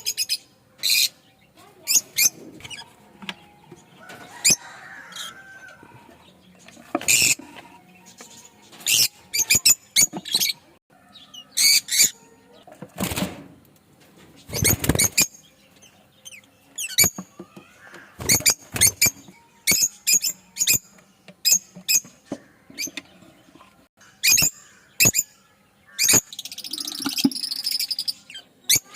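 Lovebirds chirping: many short, sharp, high-pitched calls at irregular intervals, with a couple of longer noisy bursts around the middle.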